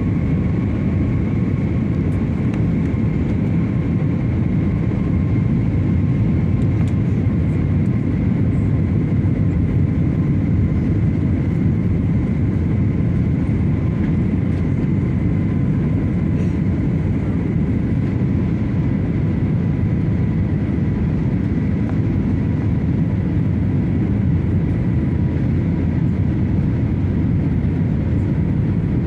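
Steady jet airliner cabin noise: a constant low rumble of engines and airflow, with a faint high engine whine that sinks slightly in pitch.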